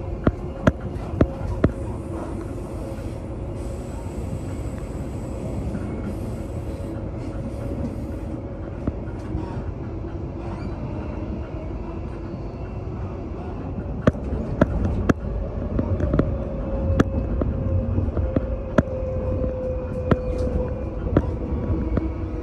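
Brisbane suburban electric train running at speed, heard from inside the carriage: a steady rumble of wheels on the track, with sharp clicks as the wheels pass over rail joints. The clicks come in a cluster at the start and again about two-thirds of the way through, and a humming tone slides slowly lower near the end.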